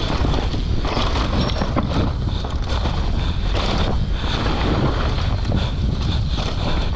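Wind rushing over an action camera's microphone on a mountain bike moving fast downhill, with the bike's irregular knocks and rattles over rough trail.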